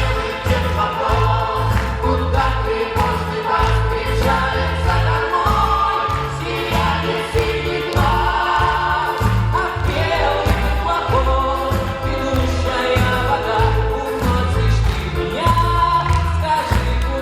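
A vocal ensemble singing together in chorus over an accompaniment with a steady bass beat.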